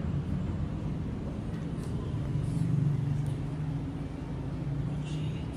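Steady low rumble of city traffic, with a few short, faint high chirps over it.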